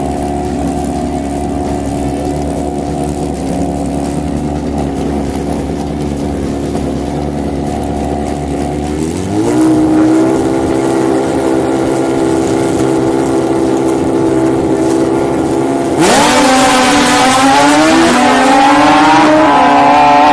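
Drag-racing motorcycle engines running at a steady idle, then revved up and held higher about nine seconds in, with a sharp, louder rev-up about sixteen seconds in that stays high.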